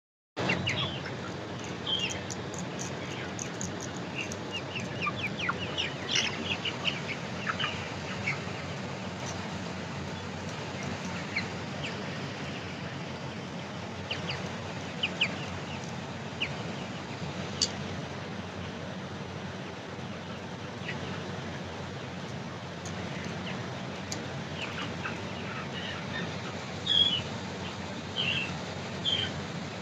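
A flock of poultry chicks peeping: many short, high chirps over a steady background din, with a louder run of peeps near the end.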